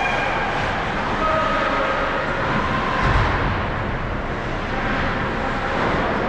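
Ice hockey rink din during a youth game: steady mixed noise of skating play and distant spectators' voices, with a low thump about three seconds in.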